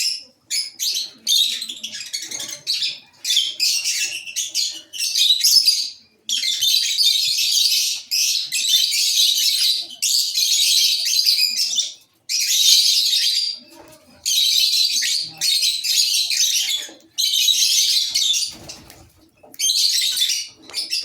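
A colony of lovebirds chattering: dense, high-pitched twittering in bursts a second or two long, broken by short pauses.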